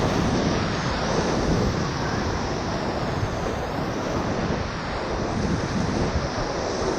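Whitewater of the Ocoee River at high water rushing steadily around the raft, an even, unbroken noise.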